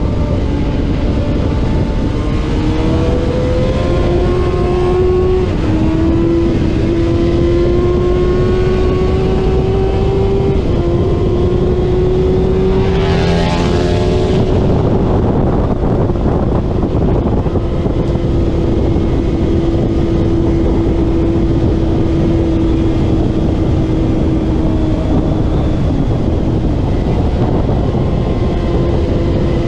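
Middleweight superbike at racing speed, heard from on board: the engine runs at high revs, its pitch climbing and stepping with gear changes, under a heavy rush of wind. About thirteen seconds in, another racing motorcycle passes close by with a brief, louder burst of engine noise.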